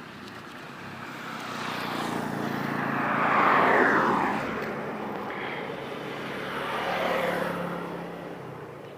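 Two vehicles pass one after the other. Each grows louder and then fades, its pitch dropping as it goes by. The first, about three and a half seconds in, is the louder.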